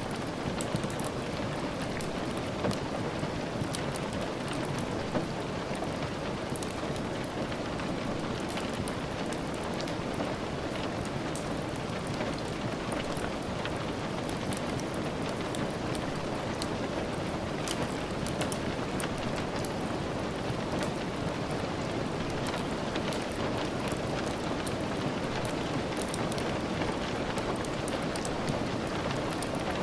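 Steady rain with many small, sharp ticks scattered throughout.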